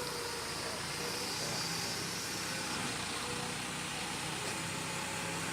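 Truck engine running steadily, with a constant wide hiss.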